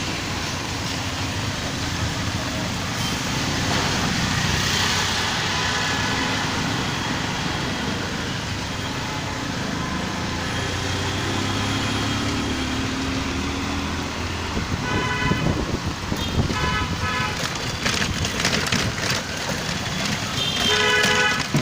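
Street traffic running steadily, with vehicle horns honking several times in the second half, the last horns the loudest.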